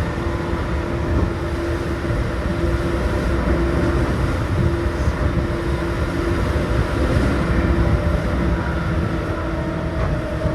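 Seibu New 2000 series electric train running between stations, heard from inside the car: a steady rumble of wheels on rail with a motor hum that comes and goes.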